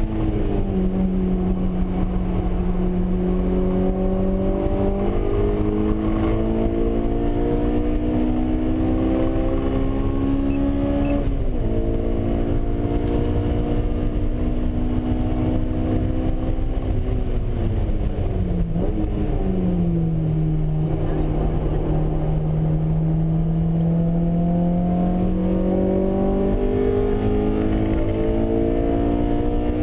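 Honda S2000's 2.0-litre four-cylinder engine heard from inside the cabin, pulling hard on track: its pitch climbs steadily, drops sharply at an upshift about a third of the way in, then climbs again. Past halfway it falls away as the car slows, with a short rev blip on the downshift, holds low for a few seconds, and rises again near the end.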